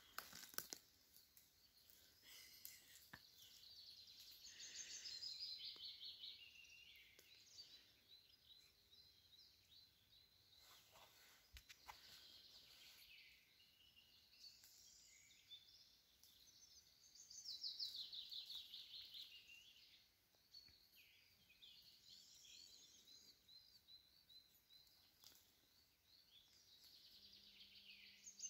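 Faint woodland birdsong: a songbird repeats a short, falling, trilled phrase again and again, with a few soft clicks in between.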